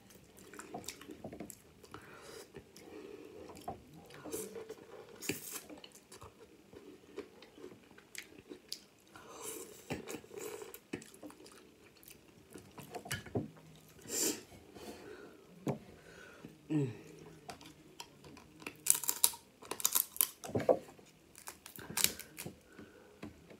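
Close-up chewing and sucking of snow crab leg meat: wet mouth smacks and sharp clicks, with the crackle of crab shell being pulled apart by hand, busiest near the end.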